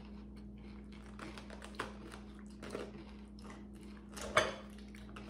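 Crunching and chewing of a raw jalapeño pepper stuffed with cream cheese and Takis rolled tortilla chips: a run of small crisp crackles, with one louder click about four seconds in and a steady low hum underneath.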